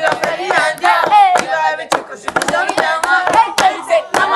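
A group of students singing and chanting loudly together, with hand claps throughout.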